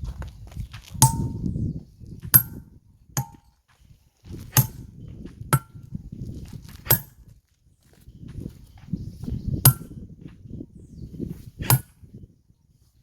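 Hammer striking a steel stonecutting tool set in a stone block: about eight sharp metallic clangs at uneven intervals, each ringing briefly. Low scraping and shuffling sounds fill the gaps between blows.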